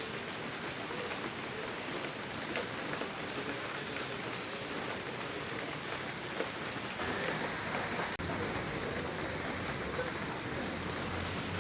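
Steady rain falling, with scattered drops ticking on surfaces. A low rumble comes in over the last few seconds.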